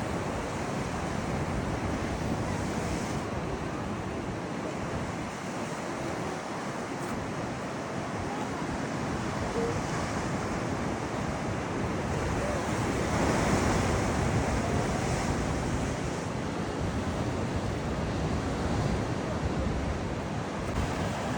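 Rough sea surf breaking and washing continuously, with wind buffeting the microphone; the surge swells briefly past the middle.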